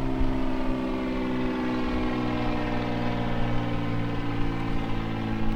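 A motor engine running steadily, a continuous droning hum whose pitch drifts slowly.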